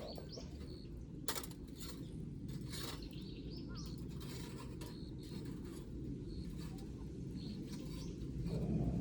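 Small birds chirping in short, high, rising calls. Under them is a steady low background hiss, with a couple of sharp clicks.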